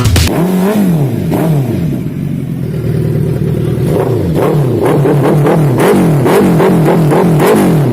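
A superbike engine revved up and down over and over. It starts with slower swells, and from about halfway it is blipped in quick succession, about two revs a second.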